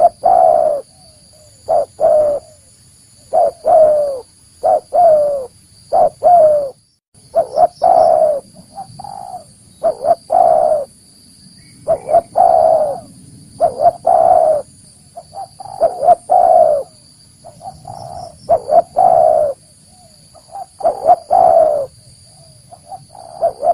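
Spotted dove cooing over and over, a phrase of several low coos every couple of seconds, with a faint steady high whine behind it.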